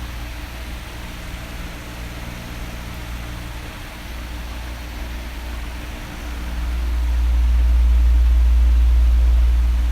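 Oscillating electric fan running, a steady airy hiss over a low hum. About six seconds in, a low rumble swells much louder as the fan turns toward the microphone, then begins to ease off near the end.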